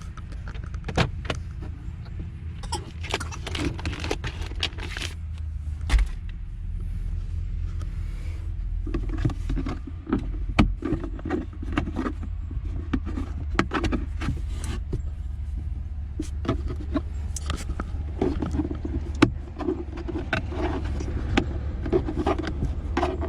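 Repeated plastic clicks, knocks and rustling as car interior trim and the cabin air filter housing are handled, over a steady low hum.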